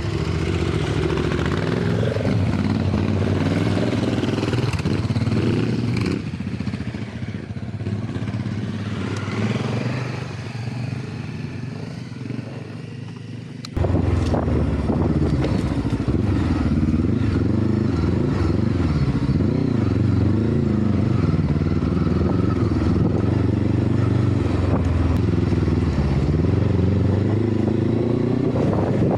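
Motorcycle engine running under changing throttle as the bike rides an off-road trail, with some rattle. The sound cuts abruptly about 14 seconds in to a louder stretch of the same kind of riding.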